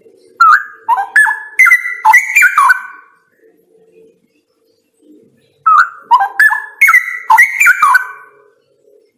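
Straw-headed bulbul (cucak rawa) singing two loud phrases of rapid notes leaping up and down in pitch, each about three seconds long. The second phrase starts about five and a half seconds in.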